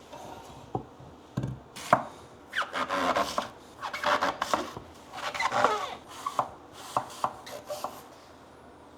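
Dry, crisp crunching and clicking of freeze-dried apple pieces: a few single clicks, then two stretches of dense crunching, then scattered clicks that die away near the end.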